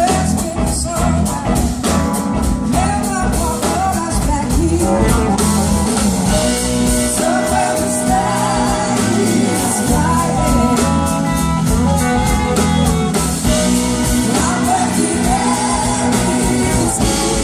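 Live blues-rock band playing on stage, with a singer and electric guitar over bass and drums.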